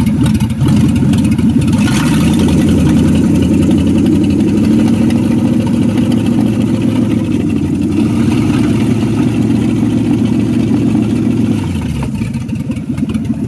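Car engine idling steadily under the hood while driving a newly connected alternator that is charging the battery. It drops a little in level near the end.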